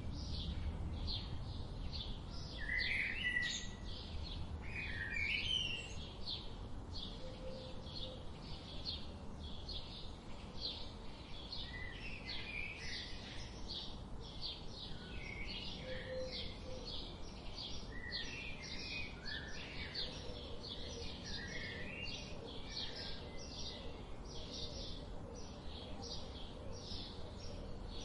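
A chorus of small birds chirping: a dense run of short high chirps several times a second, with occasional lower warbling phrases mixed in, over a soft steady background hiss.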